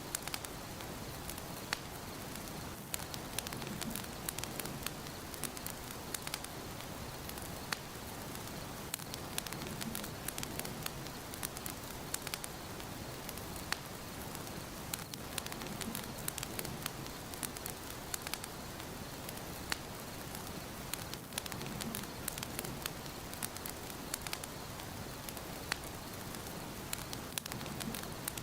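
Wood fire burning in a fireplace, crackling steadily with frequent sharp pops and snaps over a soft hiss.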